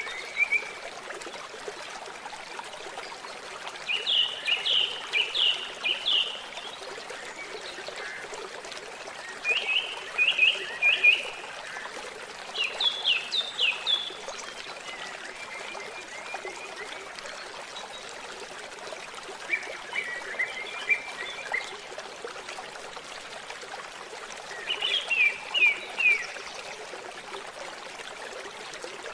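Water trickling steadily, with a bird singing short phrases of rapid repeated notes about every four to five seconds.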